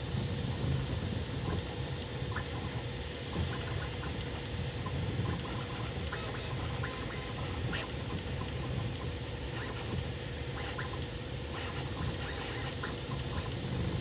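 Bambu Lab A1 Mini 3D printer printing at high speed: a steady fan hum with short chirping whines from the stepper motors as the print head darts back and forth.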